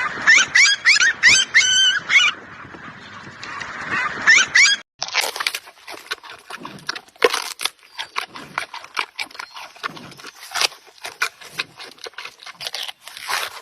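Domestic fowl calling in a quick run of short rising calls over a steady hiss; about five seconds in the clip cuts abruptly to a different animal making irregular sharp clicks and short low sounds.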